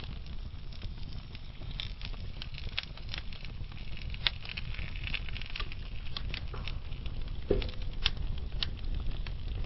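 Burning logs in a fireplace crackling: irregular sharp pops and ticks over a steady low rumble of the flames, with one louder pop about three quarters of the way through.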